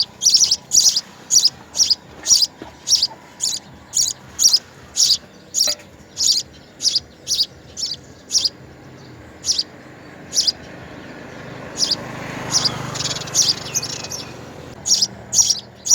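A small bird chirping over and over in short, high chirps, about two a second, thinning out about halfway through. A low rushing sound swells up and fades again near the end.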